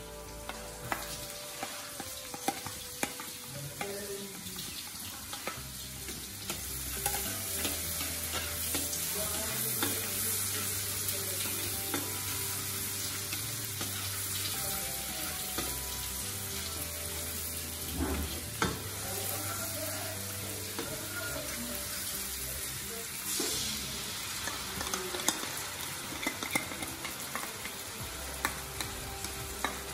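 Minced garlic and shallots sizzling in hot oil in an aluminium wok, stirred with a spatula that scrapes and clicks against the metal. The sizzle grows louder about seven seconds in.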